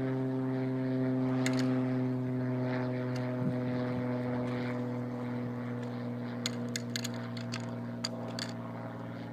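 Small propeller airplane flying over: a steady droning hum that slowly fades, with a few light clicks near the end.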